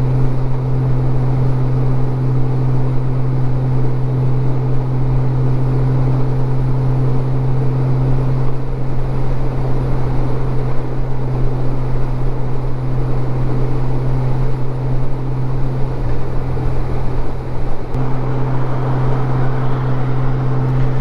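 Honda Goldwing 1500's flat-six engine droning steadily at road speed, with wind and road noise on the microphone. Its note eases slightly for several seconds mid-way and firms up again near the end.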